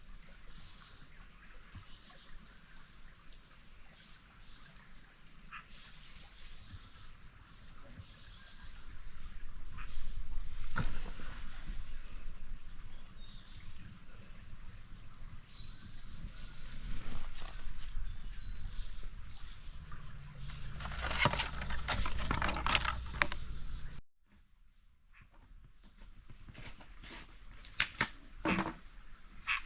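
Steady high-pitched insect chorus, with scattered knocks and rustles over it that are busiest in the middle. Everything drops out abruptly about four-fifths of the way through, then the chorus builds back.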